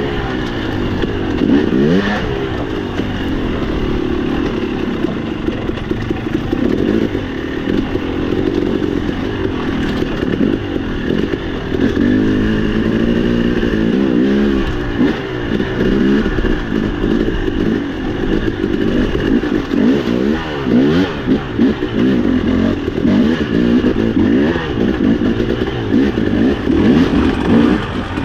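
Dirt bike engine running under constant throttle changes, its revs rising and falling over and over as it works along a rocky trail.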